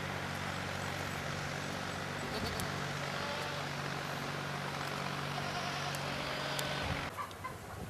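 A vehicle engine running steadily with a low hum and rushing noise; it stops abruptly about seven seconds in.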